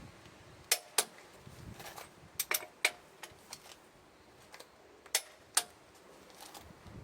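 Irregular sharp metallic clinks and taps, about seven in all, some with a brief ring. These are metal tools or parts being handled during a truck tire change.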